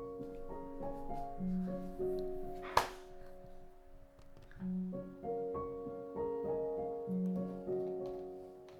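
Soft piano background music, a slow repeating phrase of held notes. A single sharp click about a third of the way through.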